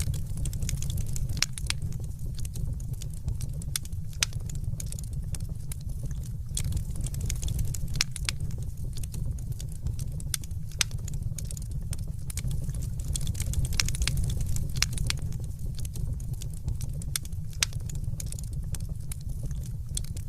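Wood fire crackling in a hearth: many irregular sharp snaps and pops over a steady low rumble.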